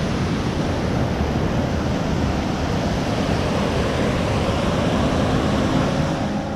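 Waterfall and river cascades rushing steadily.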